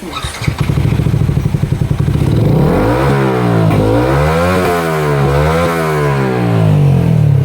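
KTM Duke 200's single-cylinder engine, fitted with a bend pipe and aftermarket exhaust, idling steadily, then revved up and down several times from about two and a half seconds in.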